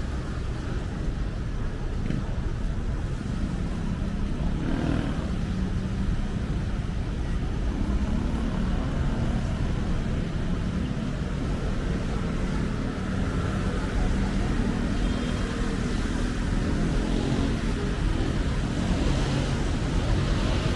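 City street traffic: a steady rumble of passing car engines and tyres.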